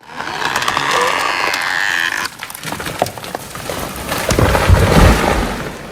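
Wood cracking and splintering. A steady noisy sound cuts off abruptly about two seconds in, scattered cracks follow, and a heavy low thud comes about four and a half seconds in.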